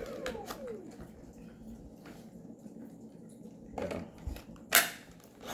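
Vacuum cleaner motor spinning down after being switched off: a whine that falls steeply in pitch over about the first second. Then small handling clicks, and a sharp knock near the end.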